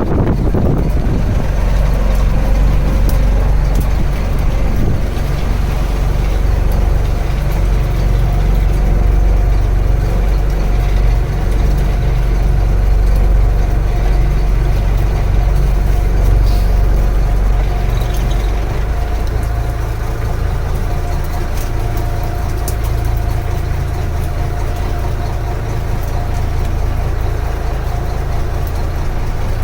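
Fishing boat's engine running steadily with a low, even drone, easing slightly about two-thirds of the way through.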